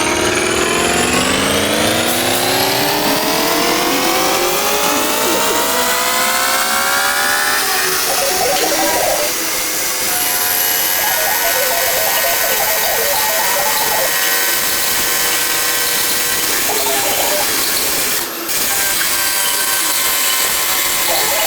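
Electric motor of a metalworking machine tool spinning up, its whine rising steadily in pitch for about eight seconds and then running at a constant speed. Short rough stretches of cutting noise come and go over the steady whine.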